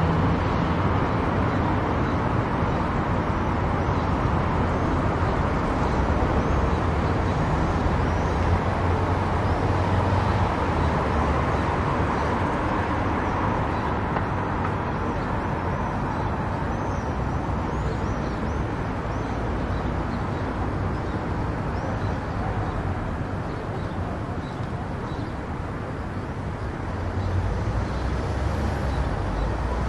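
Car driving on a road: steady tyre and road noise over a low engine rumble. It eases off a little for a few seconds and picks up again near the end.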